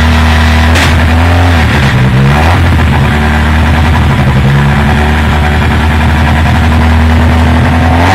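Skoda Fabia rallycross car's engine running stationary to warm up, held at steady raised revs. The revs drop briefly about two seconds in and pick back up.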